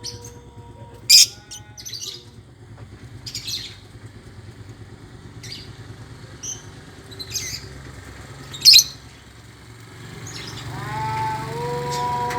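Lovebirds chirping in short, sharp calls every second or two, the loudest about nine seconds in. Near the end a small engine's running sound grows louder underneath.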